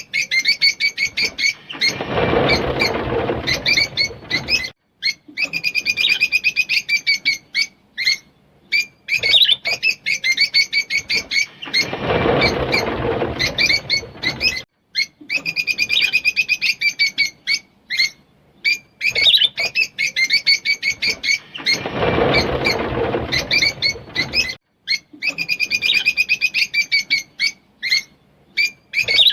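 Rosy-faced lovebirds chattering in rapid high chirps and trills. A rushing noise lasting about two seconds is mixed in, and the same passage repeats about every ten seconds.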